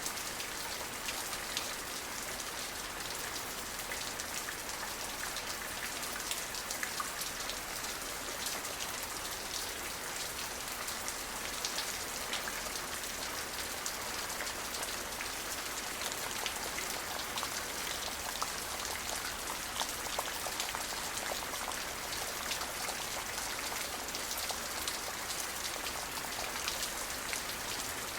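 Steady rain falling on a surface, a dense even hiss dotted with many small drop ticks, with no thunder.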